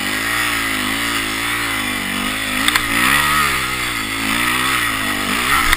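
Kawasaki KX250F dirt bike's single-cylinder four-stroke engine revving up and down over and over, the pitch rising and falling every second or so, as the bald rear tire struggles for grip; the engine is running very hot.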